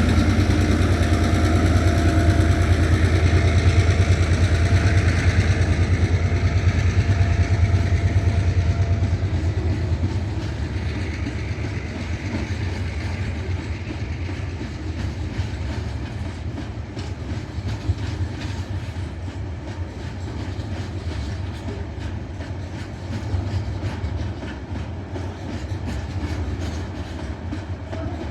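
TasRail freight train passing: the diesel locomotives' engines run loud for about the first ten seconds, then fade as the wagons roll by, their wheels clicking over the rail joints.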